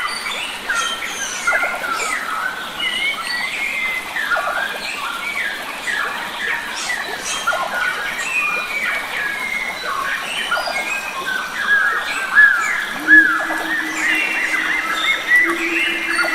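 A chorus of many wild forest birds, calling and chirping continuously with short whistled notes and quick pitch glides. About thirteen seconds in, a steady low tone starts and holds under the birds.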